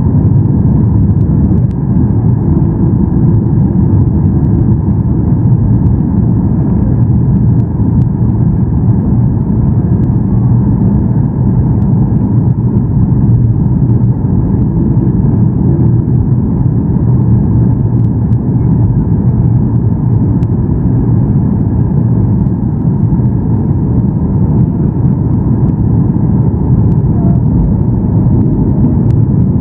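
Steady engine and airflow noise inside the passenger cabin of a Boeing 737-800 on final approach, a low, even rumble that stays constant throughout.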